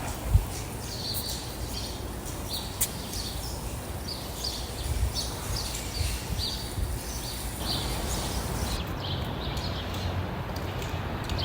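Small birds chirping over and over in quick, short notes, with a steady low rumble underneath and one thump near the start.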